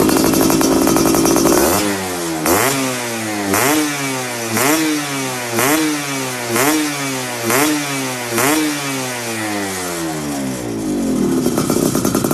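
Yamaha F1ZR two-stroke single-cylinder engine through a racing exhaust, held at steady revs, then blipped about eight times at roughly one-second intervals, each blip rising quickly and falling back, before settling into steady high revs again near the end.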